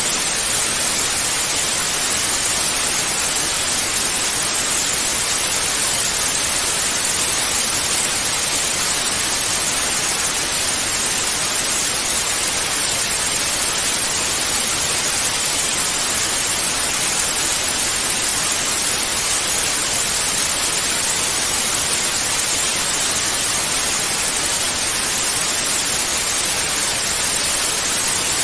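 Television static (white noise): a steady, even hiss with no change, heaviest in the treble.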